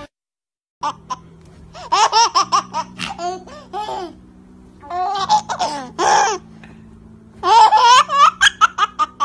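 A baby laughing in three bouts of quick, high giggles, each a second or two long, starting about a second in, over a faint steady hum.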